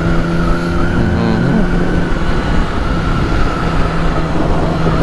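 Wind rushing over the microphone of a moving motorcycle, with the steady note of a 2008 Yamaha R6's inline-four engine holding a cruising speed.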